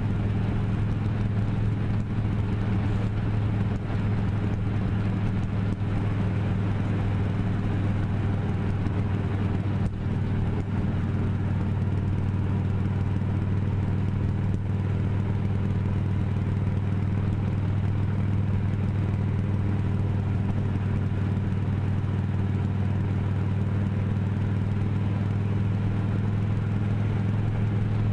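A vehicle's engine running at a steady speed while on the move: a constant low hum that holds the same pitch, with steady road noise.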